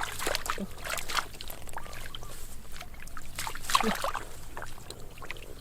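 Water splashing and sloshing in irregular, uneven bursts.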